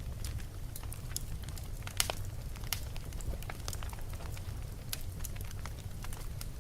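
Wood fire burning in a fireplace, crackling with frequent small pops over a steady low rumble, with one sharper pop about two seconds in.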